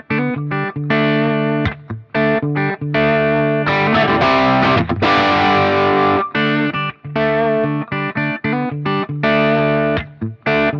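Electric guitar played through a Crazy Tube Circuits Stardust V3 overdrive pedal, a blackface-amp-style drive, into the power amp of a Peavey 5150 via its effects return. Distorted chords and riffs with short stops, with a fuller strummed stretch in the middle.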